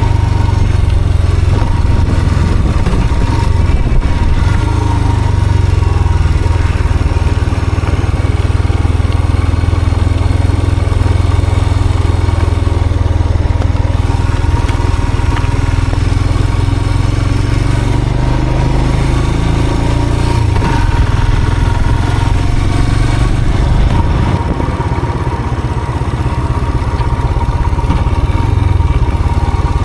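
A motor vehicle's engine running steadily while on the move, with a steady thin high tone throughout.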